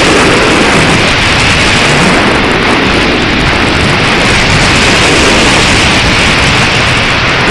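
Strong wind buffeting the microphone: a loud, steady rushing roar.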